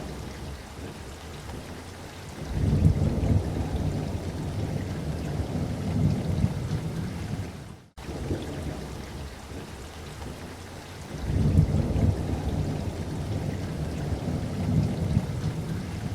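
Steady rain with two rolls of thunder, each breaking in suddenly and rumbling low for several seconds, about a sixth of the way in and again about two-thirds in. Just before the second roll the sound cuts out for an instant, and the same rain-and-thunder stretch then plays again.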